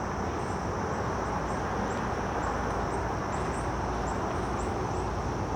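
Outdoor background noise with a bird giving short, high chirps, about two or three a second, over a steady high hiss.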